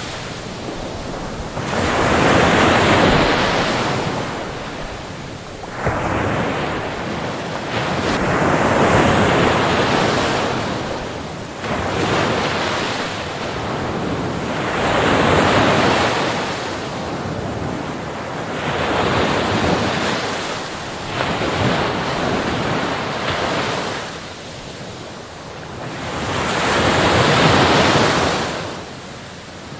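Sea waves breaking and washing up a beach, the surf swelling and fading in about five surges several seconds apart.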